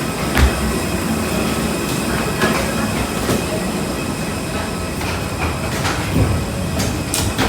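Train running, a steady rumble with a few short knocks.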